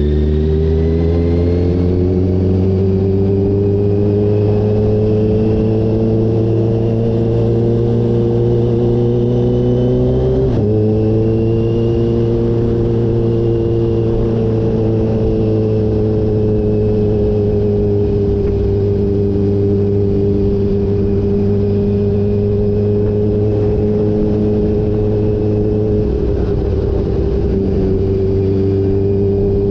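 Kawasaki H2 motorcycle engine running under load while riding, its pitch rising slowly for about ten seconds. There is a brief break about ten seconds in, after which the engine holds a steady pitch.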